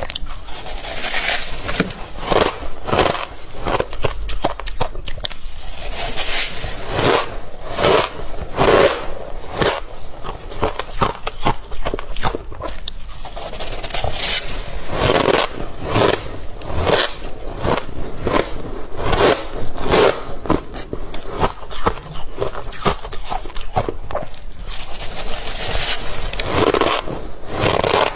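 Freezer frost being scraped and crunched, a steady run of crisp, gritty crunches recurring about every half second to second.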